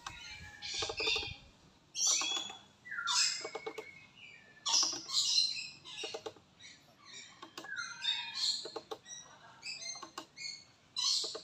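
Birds calling over and over, short harsh calls coming about once a second, a few of them with a falling note.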